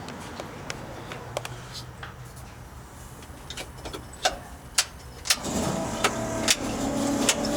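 Scattered sharp clicks and knocks as the truck is readied to start, then about five seconds in a steady, even-pitched hum from the truck comes on and holds.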